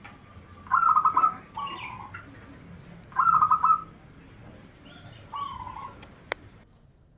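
Zebra dove (perkutut) cooing: two loud, quickly trilled coo phrases, each followed by a softer, lower note. A single sharp click comes near the end.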